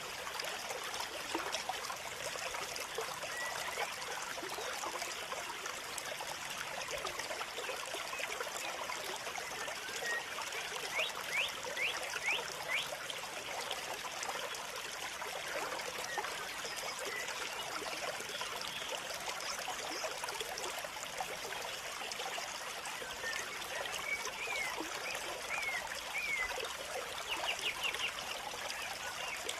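Water of a small stream trickling and running steadily, with a few short high chirps about a third of the way in and again near the end.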